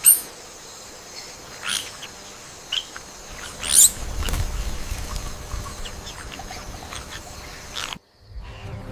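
Forest ambience: a few short, high, sweeping bird-like chirps over a steady insect-like background drone, with a low rumble joining about halfway through. It cuts off suddenly near the end.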